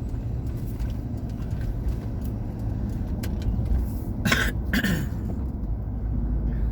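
Car road noise heard from inside the cabin while driving, a steady low rumble. About four seconds in, a person coughs twice in quick succession.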